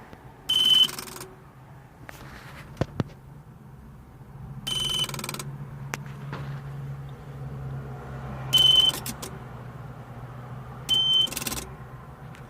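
2003 Sea-Doo GTI LE RFI's electronic beeper sounding four short high beeps several seconds apart, with a couple of sharp clicks in between. With the DESS key on the craft gives only these beeps and does not start.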